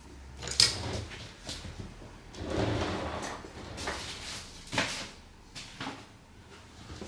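Small tools and phone parts handled on a repair bench: sharp clicks and light taps, with a longer scraping rustle about two and a half seconds in.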